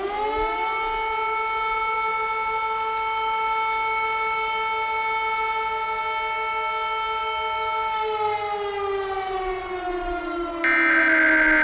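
Outdoor tornado warning siren winding up, holding a steady wail, then slowly winding down in pitch from about eight seconds in. A louder, harsh electronic burst cuts in near the end.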